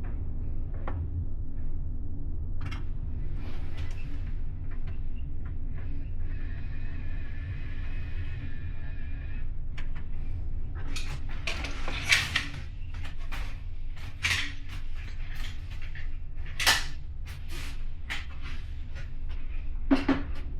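Steady low rumble of a car ferry's engines heard inside a passenger cabin at sea, with the cabin's fittings creaking and knocking as the ship moves. A drawn-out squeak lasts about three seconds near the middle, and sharper knocks come every couple of seconds in the second half.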